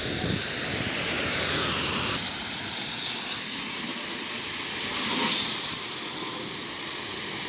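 Pressure-washer water jet spraying onto a tractor: a steady, loud hiss whose tone shifts now and then.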